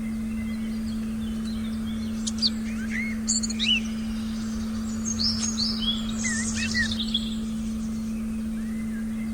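Small forest birds chirping and calling in short quick phrases through the middle. Under them runs a steady low electronic tone and a soft background hiss.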